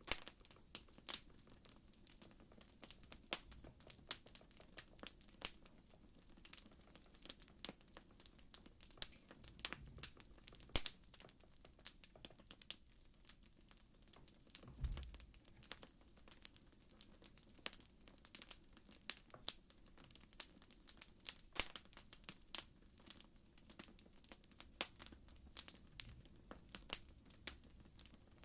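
Wood fire crackling: many irregular sharp pops and snaps over a soft low rumble, with a brief deeper swell about halfway through.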